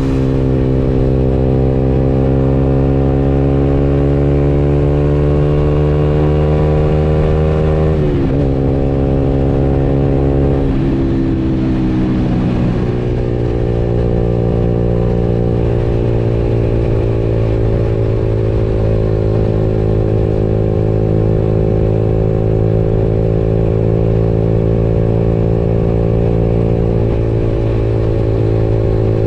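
Motorcycle engine running while riding, its pitch climbing slowly for about eight seconds, then dropping sharply twice in quick succession before settling into a steady cruise.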